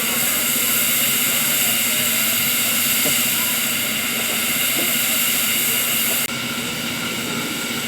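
Miniature railway locomotive giving a loud, steady hiss. The highest part of the hiss cuts off suddenly about six seconds in.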